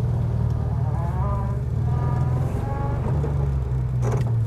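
1935 Rolls-Royce 20/25's straight-six engine running as the car pulls away, heard from inside the cabin as a steady low rumble. About a second in, a whine rises in pitch and then holds for a moment.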